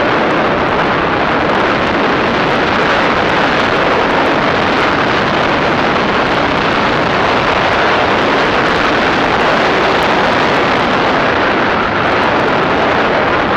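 Loud, steady rush of wind on the microphone while riding a 250 cc Chinese dirt bike, with its engine running underneath.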